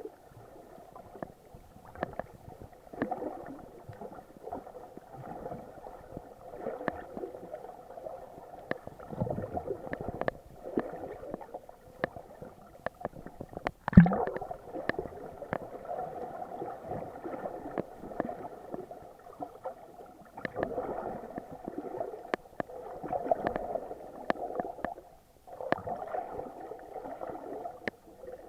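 Muffled water sloshing and gurgling, heard through an action camera's waterproof housing while snorkeling. Sharp clicks are scattered throughout, with one louder knock about halfway.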